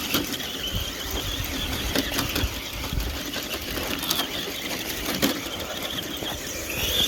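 Radio-controlled Traxxas TRX-4 Sport mud truck driving, its Castle 3800 kV motor giving a high whine that wavers with the throttle, over a low rumble with a few sharp knocks.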